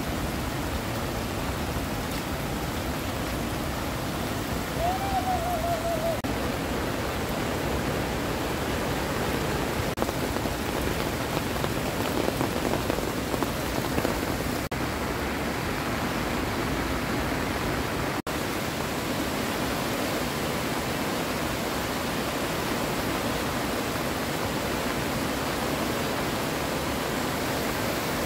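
Heavy rain falling steadily, mixed with the rush of a muddy stream in flood. About five seconds in there is a short warbling call.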